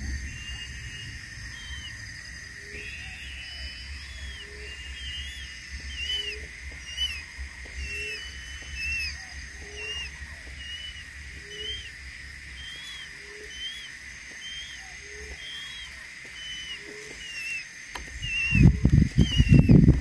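Forest ambience: a bird repeating short, curving chirps about once or twice a second over a steady high insect drone, with faint low notes. Near the end come loud, irregular low bumps on the microphone.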